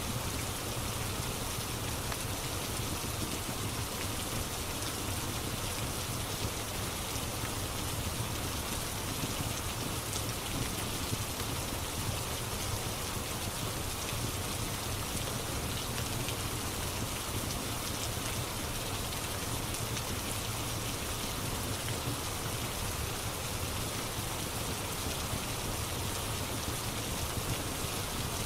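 Steady rain falling and pattering, with a few faint crackles of a wood fire in a fireplace.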